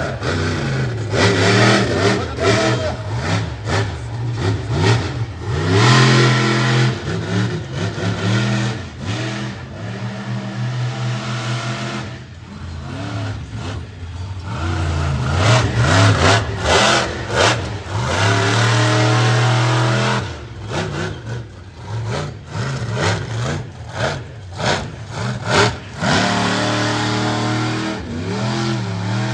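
Monster truck engine revving hard and easing off again and again, the pitch climbing and dropping with sharp throttle changes.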